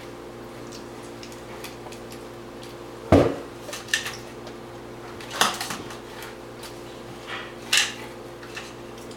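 Whole pistachios in their shells being tossed into a trash can, landing in several sharp clatters, the loudest about three seconds in, over a faint steady hum.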